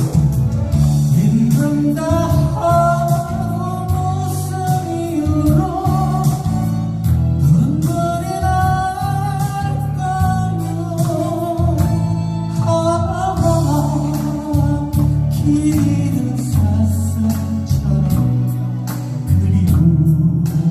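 A singer performing a Korean trot song, the voice bending and wavering in pitch over continuous instrumental accompaniment.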